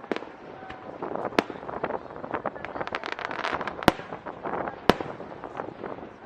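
Aerial display fireworks bursting: a dense run of sharp crackling pops through the middle, with a few louder single bangs standing out, about four in all.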